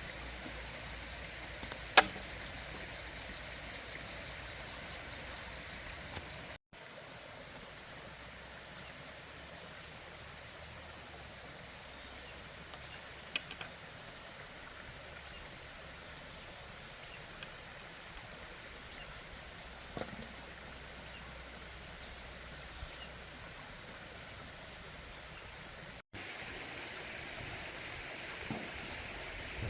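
Outdoor insect chorus: a steady high-pitched buzz with short chirping bursts repeating every two to three seconds. A single sharp knock comes about two seconds in.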